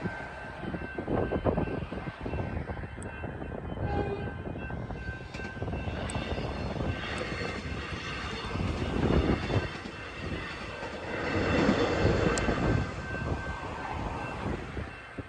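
An electric suburban train passing over a level crossing: a continuous rumble and rush of wheels and motors that swells and fades, loudest about nine and twelve seconds in, with a steady high tone held throughout.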